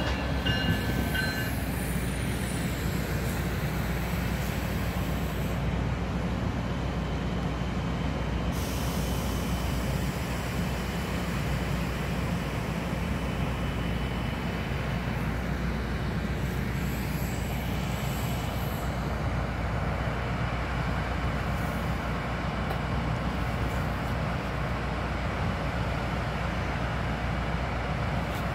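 MARC commuter train at the station: a steady rumble of diesel locomotive and rail cars. A train horn tails off in the first second or so.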